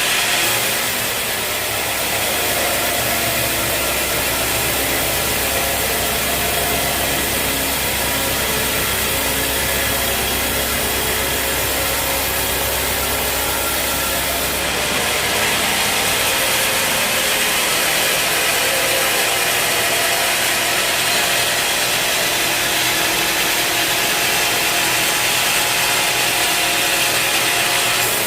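Sawmill running steadily, its engine and blade sawing through a teak log. The sound shifts about halfway through as the low hum drops away.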